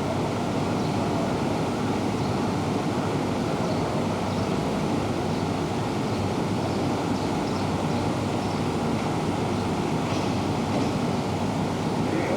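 Electric commuter train at a station platform, a steady rumbling noise with no pauses or sharp events.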